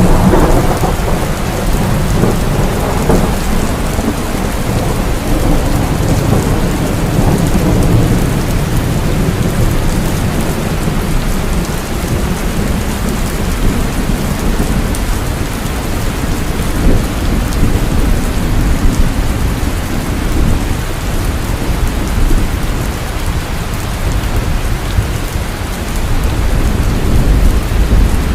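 Heavy rain falling steadily, with low thunder rumbling under it; the rumble swells a little near the start and again near the end.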